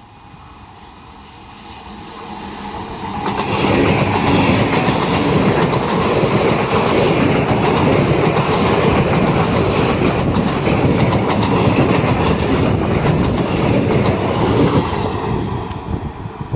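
A train passing through at speed, its wheels clattering over the rail joints. It builds up a couple of seconds in, stays loud, and starts to fade near the end.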